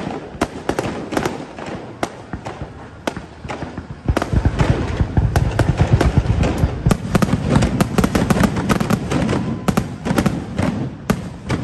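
Fireworks display: a steady run of sharp bangs and crackles that about four seconds in builds into a dense barrage of deep booms and crackling, easing off near the end.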